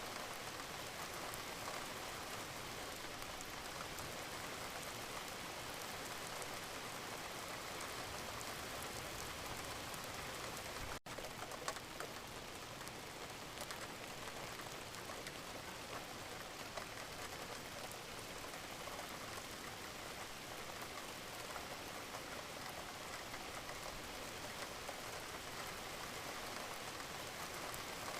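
Wood fire crackling in a fireplace: a steady hiss thick with small pops. The sound cuts out for an instant about eleven seconds in, with a louder pop just after.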